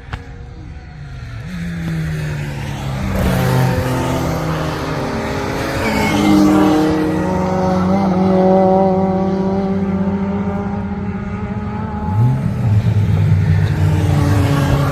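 Several hot hatch race cars' engines running hard, their notes overlapping as the cars drive past. The sound builds over the first few seconds, and about twelve seconds in one engine note climbs sharply as a car accelerates.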